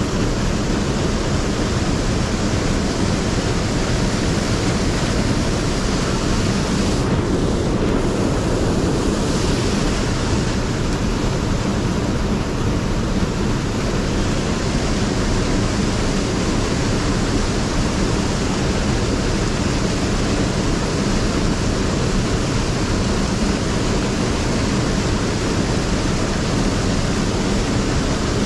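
Steady rushing of a mountain stream's flowing water, an even hiss and rumble that never lets up.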